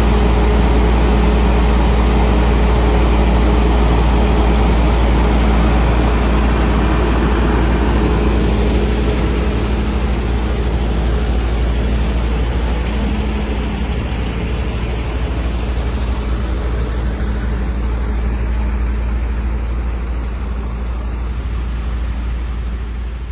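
A heavy vehicle's engine idling steadily: a loud, deep, even hum that holds one pitch, gradually getting quieter over the second half.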